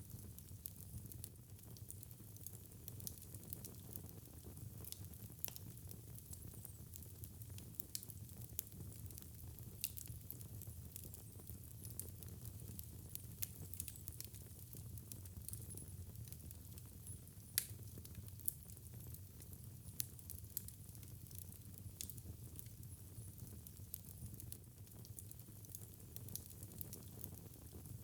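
Wood fire burning in a fireplace: a steady low rumble of flames with irregular sharp crackles and pops, one louder pop a little past the middle.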